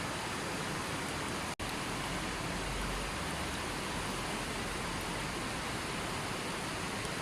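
Steady rushing water, an even hiss with no birdsong, broken by a split-second dropout about a second and a half in.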